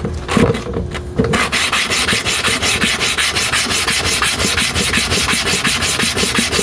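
Metal clipper blade rubbed rapidly back and forth on an oiled sharpening stone with abrasive powder, a steady scraping at about four strokes a second, starting about a second in after a few handling knocks.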